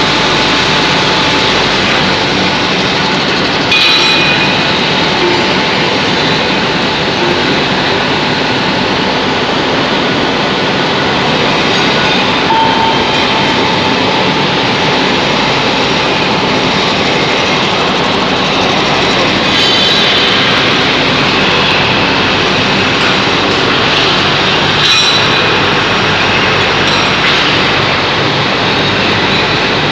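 Induction hardening machine running: a loud, steady rushing machinery noise, with a few brief sharper bursts carrying high tones.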